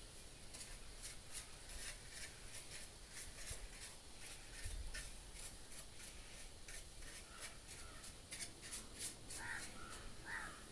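Brush scrubbing caked dust off the parts of a table fan: a run of short, scratchy strokes, a few a second.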